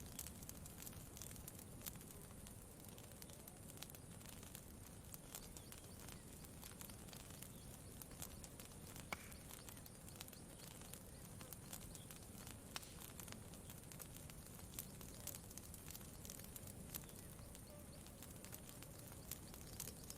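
Campfire crackling faintly, with scattered sharp pops and snaps over a low steady rumble.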